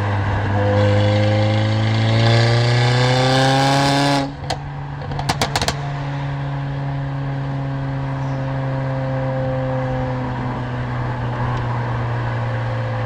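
Mercedes-AMG CLA45's turbocharged four-cylinder engine and loud exhaust pulling hard with the pitch climbing, then cutting off suddenly on lift-off with a few sharp exhaust cracks. After that it settles into a steady, lower drone while cruising.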